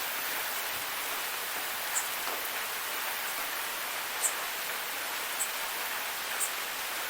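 Waterfall rushing steadily, a dense even hiss of falling water, with a few brief high ticks scattered through it.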